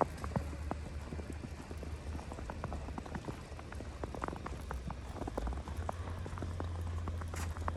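Footsteps crunching in snow: irregular crisp crunches and clicks over a steady low rumble.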